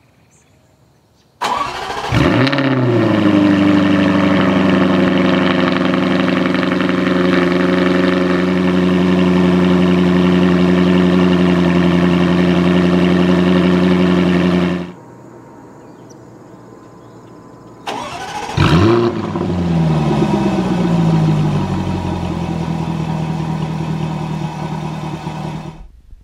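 2016 Jaguar F-Type R's supercharged 5.0-litre V8 cold-starting twice: each time it fires with a sharp flare of revs through the dual-mode exhaust and settles into a steady fast idle. The first start comes about a second and a half in and is cut off abruptly near 15 s; the second comes near 18 s, its pitch falling as the idle settles.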